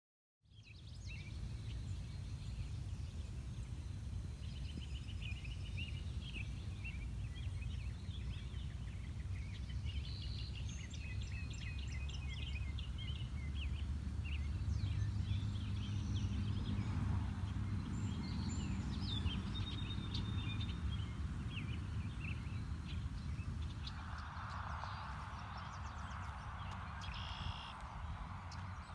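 Many small birds chirping and singing, with wind rumbling on the microphone. A steady hiss joins near the end.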